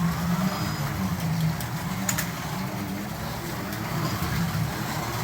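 Carrera Digital 132 slot cars running on a plastic track, their small electric motors humming and wavering in pitch as the cars lap, with a few faint clicks.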